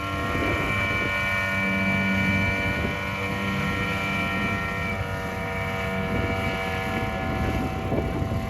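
Aircraft engine running steadily: a droning hum made of several steady tones over a rumble, with some of the higher tones fading out about two-thirds of the way through.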